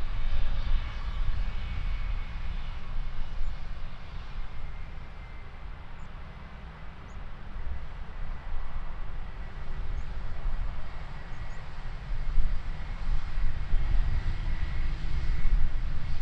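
Jet airliner engines with a low rumble and a faint high whine. The sound eases off a few seconds in, then grows louder again in the last few seconds.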